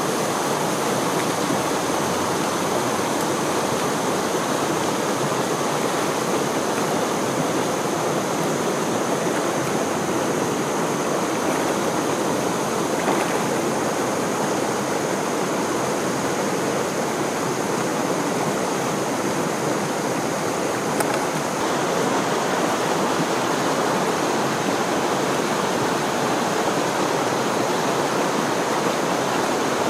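Stream water rushing steadily below a waterfall, a constant, even noise of flowing water with no let-up.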